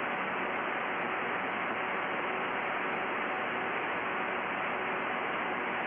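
Aircraft VHF radio static: a steady hiss with a faint hum through the headset audio, the squelch open on a weak or empty transmission.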